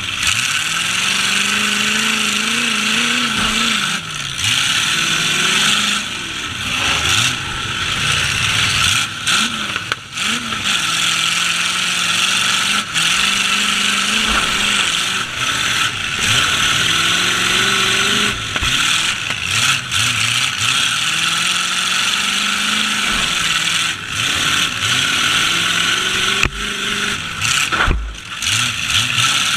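Demolition derby truck engines revving up and down again and again, more than one at a time, under a steady loud hiss. A few sharp knocks come through.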